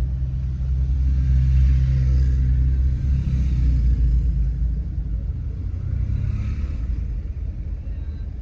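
Steady low engine and road rumble of a motorhome driving slowly in traffic, heard from inside the vehicle.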